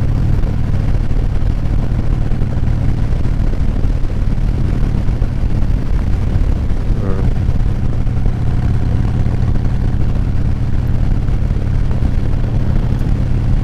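Motorcycle riding at road speed, heard from a mic inside the rider's full-face helmet: a steady, loud rumble of engine and wind.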